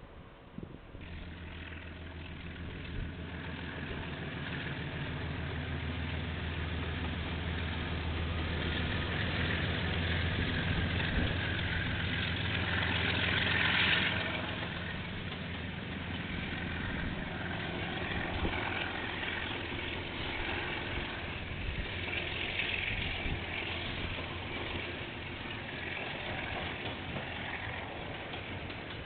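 Diesel locomotive passing: its engine hum rises to its loudest about halfway. After that the engine note fades and a steady rolling hiss of the train carries on.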